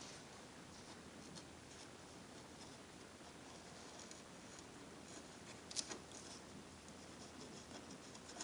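Faint scattered clicks and light scratching from small hand work on a plastic fairing, with a sharper double click a little before six seconds in.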